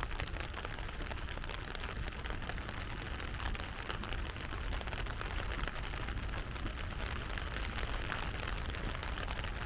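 Heavy rain falling, a steady hiss made of countless small drop impacts, over a steady low rumble.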